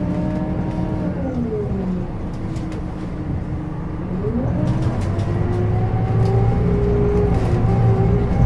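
Scania DC9 diesel engine and ZF Ecomat automatic gearbox of a 2007 Scania K270UB city bus under way. The whine falls in the first second or so, then rises again about four seconds in as the bus accelerates, getting louder and holding a steadier pitch near the end.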